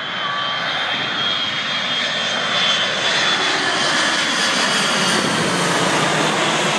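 Large jet airliner flying low overhead: a loud rushing engine noise that builds over the first three seconds and then holds, with a high whine at the start.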